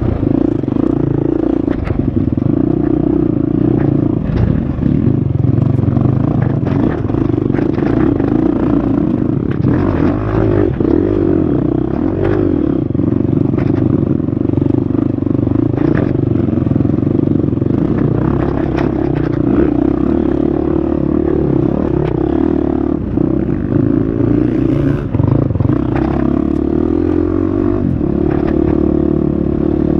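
Husqvarna FX350 dirt bike's four-stroke single-cylinder engine running continuously on the trail, its note shifting a little with the throttle. Frequent short clatters and knocks come from the bike over rough ground.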